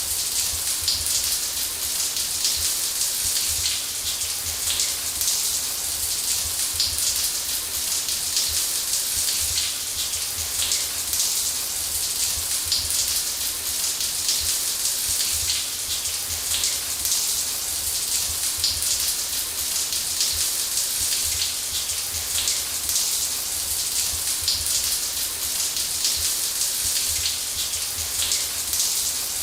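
Shower running: water spraying and splattering in a steady, unbroken hiss, with a low rumble of water striking the floor beneath it.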